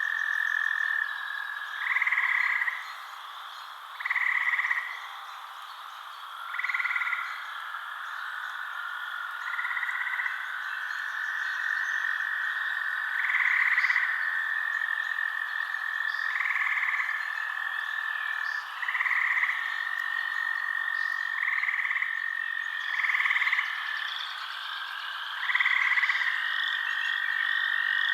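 Frogs calling in a night chorus: a short croaking call repeats about every two to three seconds over a steady high trill.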